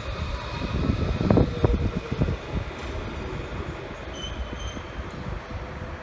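Melbourne suburban electric train at the platform, a steady low rumble with a few clanks from the wheels on the rails between one and two seconds in. Two short high beeps sound about four seconds in.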